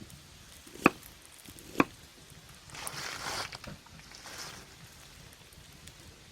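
Two sharp knife strikes on a cutting board about a second apart while a tomato is being cut, followed by a short rustling noise.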